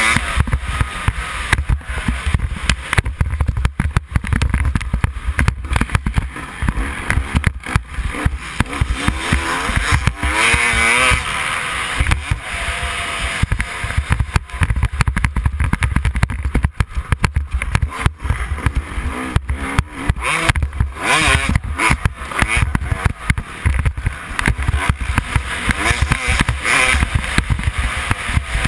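Motocross dirt bike engine revving hard and backing off, its pitch climbing and falling again and again, with heavy wind buffeting on the microphone.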